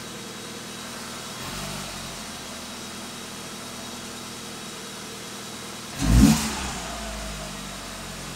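Alfa Romeo 147 1.6 Twin Spark's four-cylinder engine idling, heard from inside the cabin. It gets a light blip of the throttle about a second and a half in and a short, sharp rev about six seconds in, the loudest moment, before it drops back to idle.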